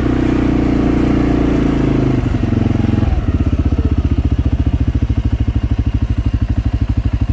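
Small vehicle engine running steadily, then about three seconds in dropping to a slower, rapidly pulsing throb, like an engine settling to idle as the vehicle stops.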